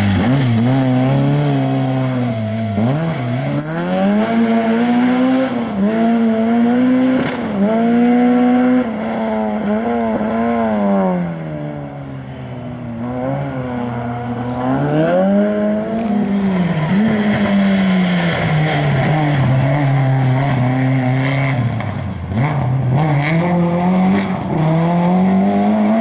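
Citroën Saxo competition car's engine revving hard and easing off again and again as it is driven through tyre chicanes, the pitch climbing and dropping every couple of seconds.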